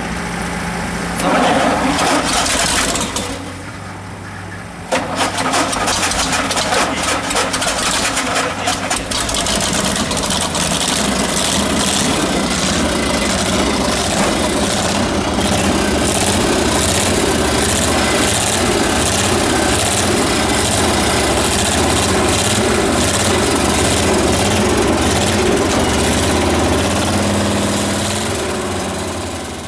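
Car engine cranked on the starter, with fast even strokes, then catching and running steadily.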